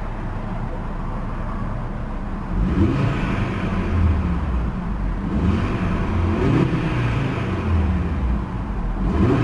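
Audi RS Q3 Sportback's 2.5-litre turbocharged five-cylinder idling, then revved about four times while parked, each rev rising and falling in pitch, against a stationary rev limiter around 4,000 RPM.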